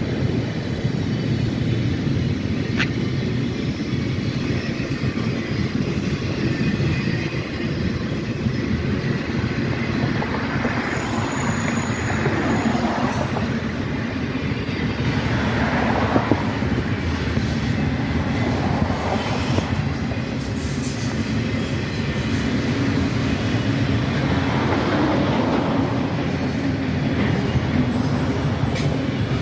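A CSX mixed freight train's autorack cars rolling past on the rails with a steady low rumble and clatter. Higher-pitched wheel squeal rises and fades several times.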